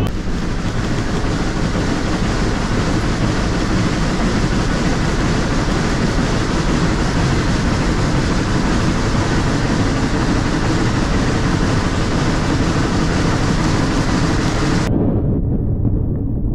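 Steady rumble and rattle of a moving railroad train, heard while riding along. Near the end the hissing top of the noise cuts off suddenly, leaving only the low rumble.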